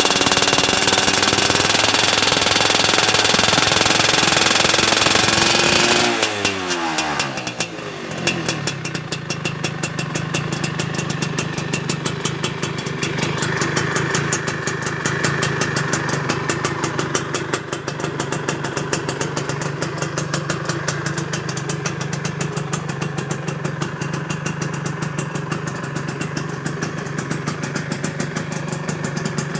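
Yamaha F1ZR two-stroke single-cylinder engine breathing through an AHM Malaysia aftermarket exhaust, held at high revs for about six seconds. The revs are then released and fall away quickly, and the engine settles into a steady, rhythmic idle.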